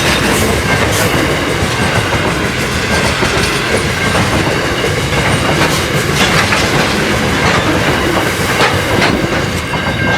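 Grain train rolling past, a steady rumble of wheels on rail with clicks as wheels cross the rail joints.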